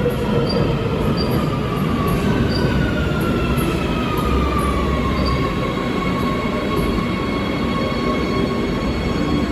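Electric train running on the rails: a steady loud rumble with several high whining tones that slowly fall in pitch.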